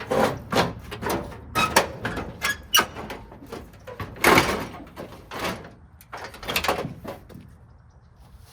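Unbolted steel front fender being worked loose and pulled off a truck: an irregular run of metal clanks, knocks and scrapes, some with a brief ring, the loudest about four seconds in.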